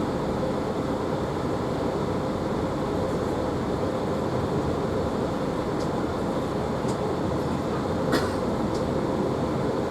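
Class 165 diesel multiple unit train running: a steady rumble with a few faint clicks.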